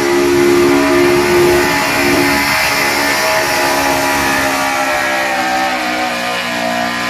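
Pickup truck engine held at high revs at full throttle under heavy load while pulling a weight-transfer sled, its pitch steady and sagging slightly near the end.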